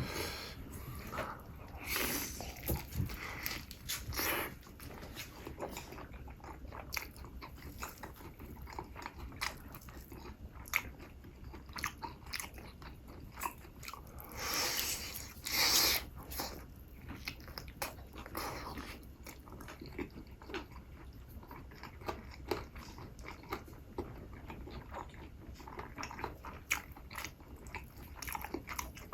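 Close-miked eating: a person biting and chewing food, with crunchy crackles and wet mouth clicks, and a few longer crunching bouts.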